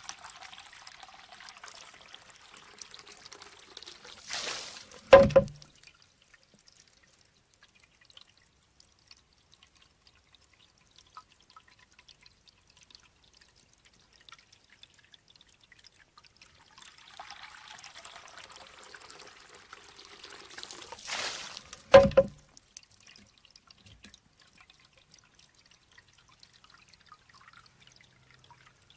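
Shishi-odoshi bamboo fountain: a few seconds of water running and spilling as the bamboo tube fills and tips, then a sharp, hollow knock of bamboo striking stone. The cycle happens twice, about 17 seconds apart, with only faint drips between.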